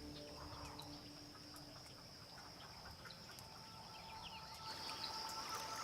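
Faint natural ambience: a steady high insect drone with scattered faint chirps, and two steady lower tones that join about four seconds in.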